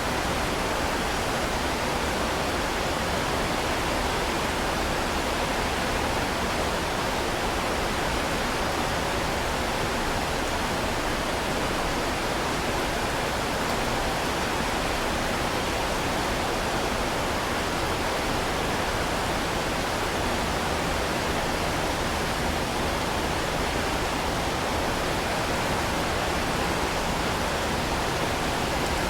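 Heavy rain falling, a steady dense hiss with no separate drops or thunder standing out.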